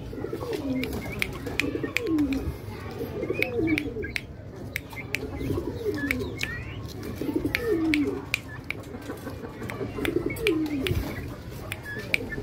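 A bird cooing over and over, a low falling call repeated about every second or so, with short high chirps and sharp clicks in between.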